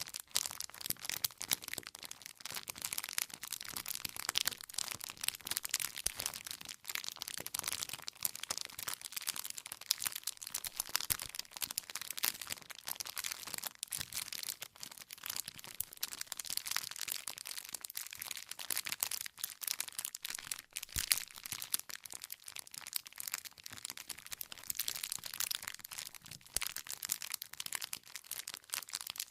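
Wood campfire burning, with a steady dense crackle of many small snaps and pops from the burning logs.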